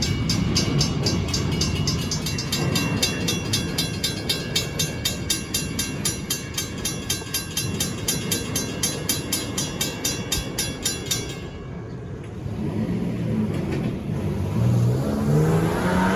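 A grade-crossing bell rings in a fast, even rhythm over the low rumble of a passing train, then cuts off suddenly about eleven seconds in. Near the end, a Stockton Terminal & Eastern diesel locomotive's engine rises in pitch in steps as it throttles up.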